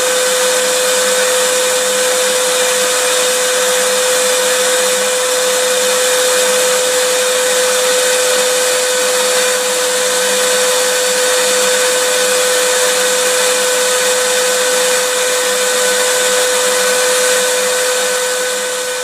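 Vacuum cleaner running steadily: a constant hiss with a steady motor whine. It begins to fade out near the end.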